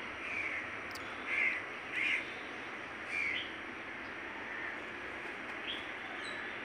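Short bird calls, about five spread a second or so apart, the loudest about one and a half and two seconds in, over a steady hiss.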